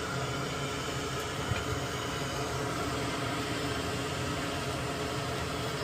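Steady background hum and hiss, with a faint click about one and a half seconds in.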